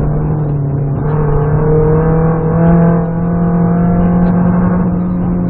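BMW 318ti Compact's four-cylinder engine running hard under load, heard from inside the cabin; its pitch holds fairly steady, rises slightly, and the sound dips briefly about three seconds in.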